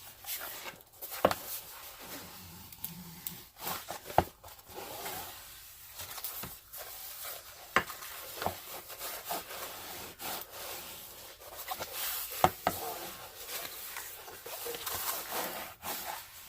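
Hands rubbing and pressing across a diamond painting canvas to smooth out its wrinkles and bubbles, with scattered sharp clicks and knocks as it is handled.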